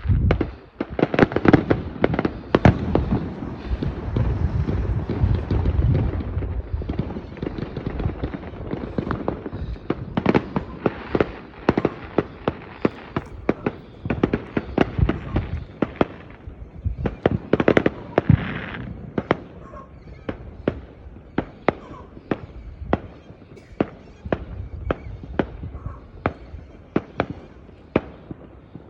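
Fireworks display: a rapid barrage of bangs and booming bursts with a low rumble in the first several seconds, then a long run of sharp cracks and pops at varying loudness.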